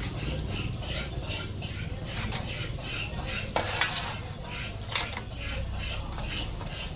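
Quick, irregular metallic clinking and scraping of hand tools against metal brake parts, several clicks a second, over a steady low rumble.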